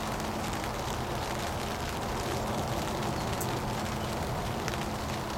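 Steady hiss of light rain with scattered faint crackles, over a low steady hum.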